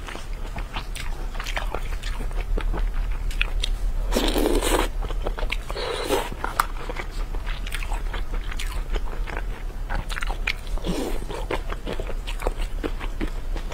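Close-miked chewing of skewered food from chili oil: a run of wet mouth clicks and soft crunches, with a few longer, louder mouth noises about four, six and eleven seconds in.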